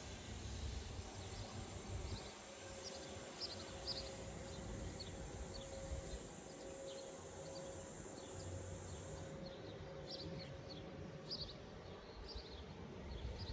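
Small birds chirping in short, scattered calls over a low outdoor rumble, with a faint steady hum through the middle.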